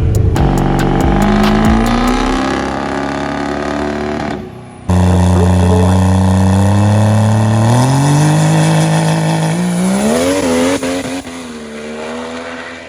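Diesel race trucks accelerating hard, the engine pitch climbing steadily with step-like jumps. About five seconds in, a cut leads to a second loud run that climbs again, wavers and fades near the end.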